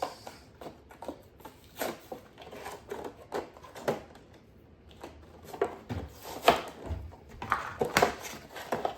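Plastic toy packaging crackling and clicking irregularly as it is handled and opened, with a few louder snaps in the second half.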